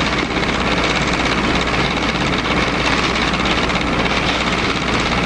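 Steady whirring hiss with a constant low hum and a faint high steady tone, from an old home-movie camera's motor and recording noise.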